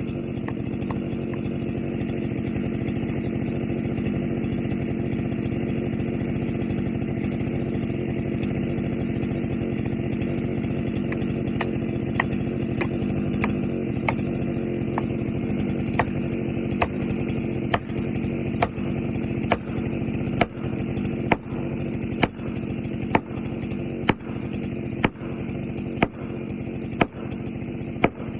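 Chainsaw engine running steadily. From about twelve seconds in, sharp knocks come at a regular pace of a little under one a second, growing louder.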